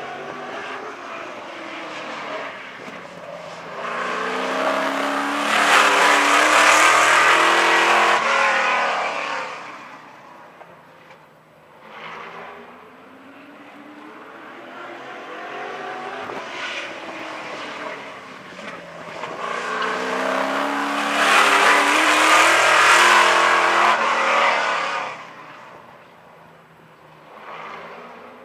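A modified stock car's fuel-injected LS V8 at racing speed, passing by twice about fifteen seconds apart. Each time the engine swells loud as the car nears, its pitch drops as it goes by, and then it fades as the car runs on around the track.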